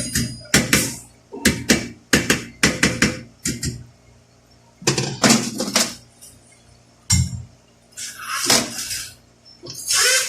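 Hard metal parts clinking and clattering against each other and a work surface, in irregular bursts of sharp knocks with brief ringing.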